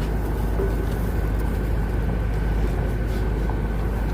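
Steady low rumble with a faint constant hum, like traffic or an engine running nearby, holding level throughout.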